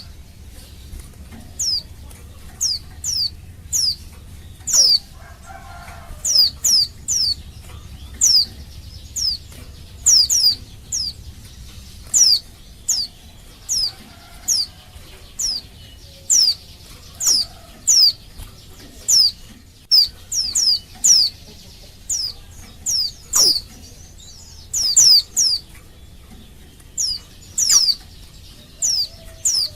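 Female white-eye (pleci) calling a male: short, high notes, each a quick downward sweep, repeated irregularly about once or twice a second and often in quick pairs or threes.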